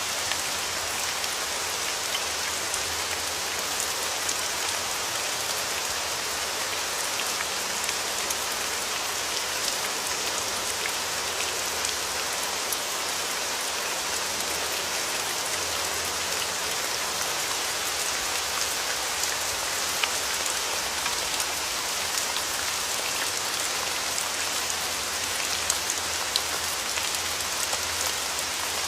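Steady rain falling, a dense even patter of raindrops with scattered sharper individual drop ticks.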